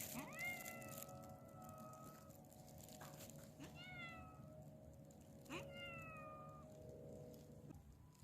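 A cat meowing faintly three times: a long meow of about two seconds that rises and then holds, followed by two shorter meows that fall in pitch.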